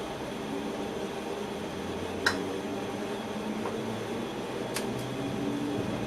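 Steady running hum and hiss inside an electric train's driver's cab, with a few tones that shift in pitch and a few sharp clicks: one about two seconds in, and two close together near five seconds.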